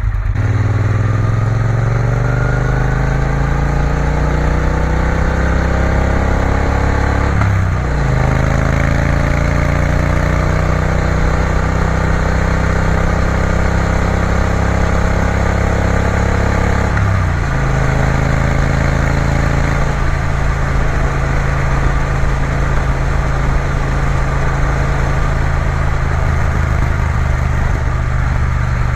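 Triumph Bonneville T120's parallel-twin engine pulling away under acceleration, rising in pitch through the gears with a brief break at each of two upshifts, then settling to a steady cruise for the last third.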